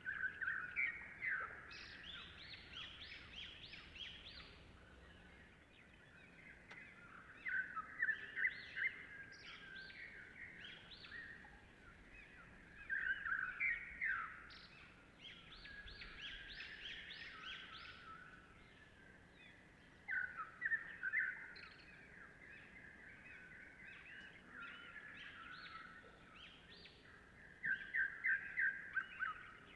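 Birdsong: rapid chirping phrases that come in louder clusters about every six to seven seconds, over a faint steady background hiss.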